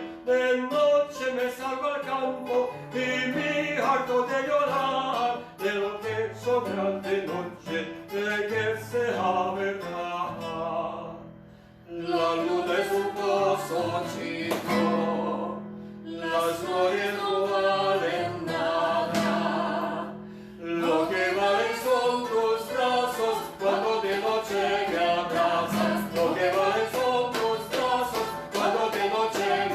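Singing with acoustic guitar accompaniment, a Spanish gypsy-style folk song. The music breaks off briefly twice, about eleven and twenty seconds in.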